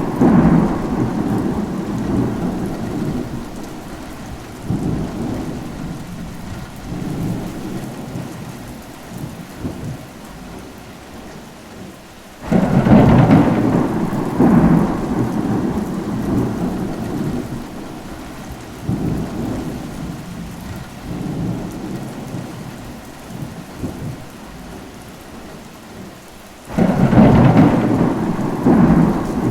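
Steady rain with rolling thunder. Thunder breaks in suddenly about halfway through and again near the end, each peal rumbling and slowly fading over several seconds, while the tail of an earlier peal dies away at the start.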